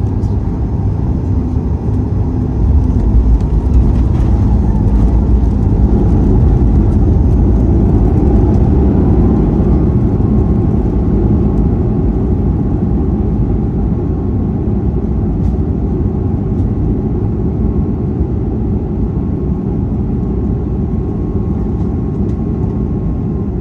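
Cabin noise inside a Boeing 737 MAX 8: the CFM LEAP-1B engines and airflow make a steady low rumble that swells about three seconds in and then eases slowly. A faint tone rises about a third of the way through and then holds.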